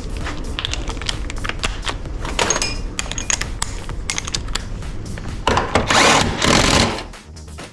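Tools clicking and knocking against metal parts of an engine being dismantled. A power tool runs in one loud burst of about a second and a half, near the end.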